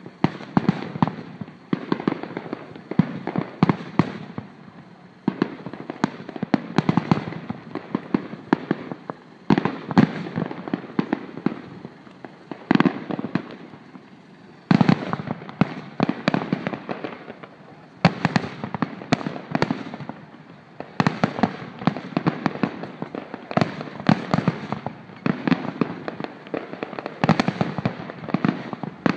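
Aerial firework shells bursting in quick succession: a dense run of bangs and crackles with a couple of brief lulls, one of them ended by a sudden loud bang about halfway through.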